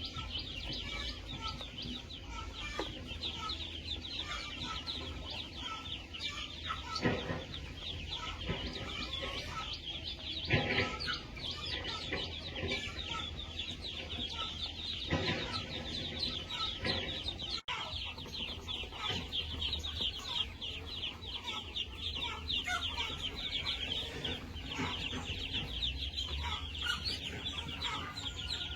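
A flock of chickens clucking and calling, a dense high chatter throughout, with a few louder single calls standing out about a quarter, a third and halfway through.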